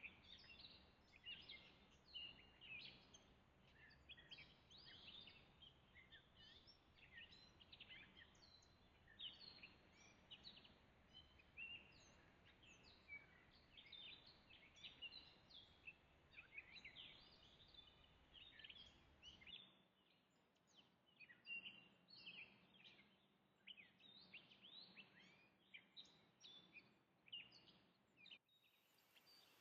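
Faint chorus of songbirds chirping, many short quick calls overlapping throughout. A low background rumble under them stops about two-thirds of the way through.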